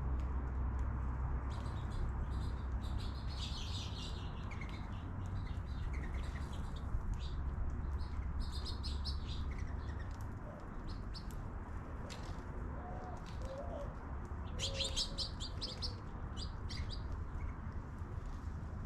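Small birds chirping in several bursts of quick, high twitters. A low steady rumble sits under the first half.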